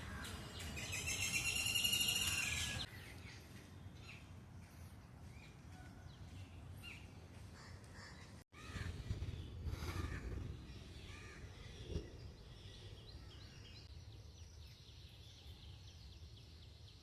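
Birds calling outdoors: a loud, pulsing call with many overtones grows louder and then breaks off about three seconds in. Faint, scattered short chirps follow over low background noise.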